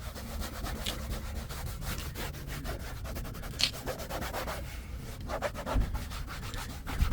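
Hand scrubbing a textured car door panel under firm pressure, a steady run of quick rubbing strokes.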